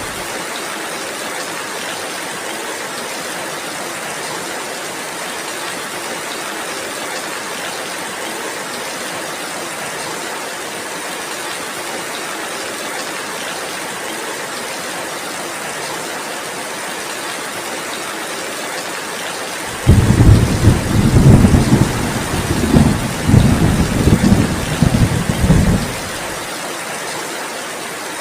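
Heavy rain falling steadily, with a rolling thunderclap about two-thirds of the way through that rumbles for roughly six seconds before fading back into the rain.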